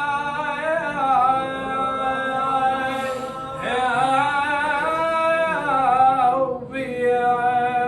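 A man singing a Husseini abudhiya (Iraqi mourning verse) with no accompaniment, in long held notes with wavering ornaments. He breaks off briefly twice, about three seconds in and again near six and a half seconds, and the phrase ends at the close.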